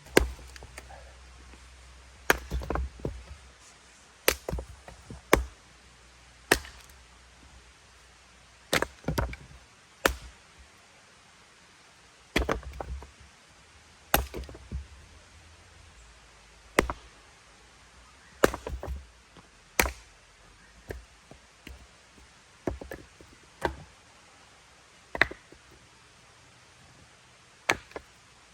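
Firewood being chopped: about twenty sharp strikes at irregular intervals of one to two seconds.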